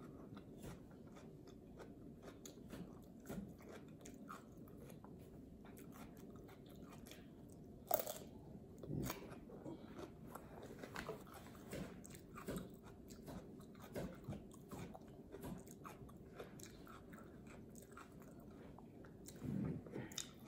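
Faint close-up crunching and chewing of raw cucumber pieces spread with peanut butter: a scatter of small crisp crunches, with one sharper crunch about eight seconds in.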